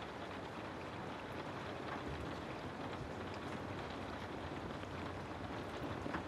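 Steady rain: an even hiss of rainfall with faint scattered drop ticks.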